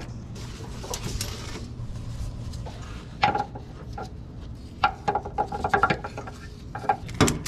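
Metal clinking and knocking from hand tools against the car's underside: scattered sharp strikes, a few ringing briefly, over a low steady hum.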